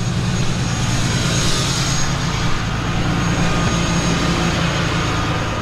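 A heavy truck engine running steadily with a loud low hum, dropping away near the end.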